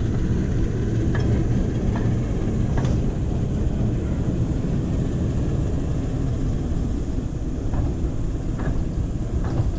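Train running: a steady low rumble with faint clicks a little under a second apart, three near the start and three near the end.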